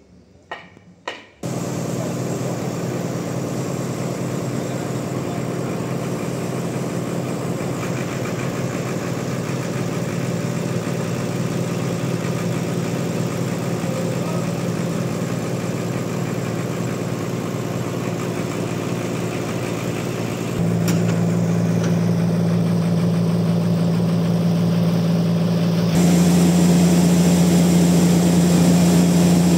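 Sawmill machinery engine running steadily, cutting in suddenly about a second and a half in after two short clicks. It gets louder in two abrupt steps, about two-thirds of the way through and again near the end.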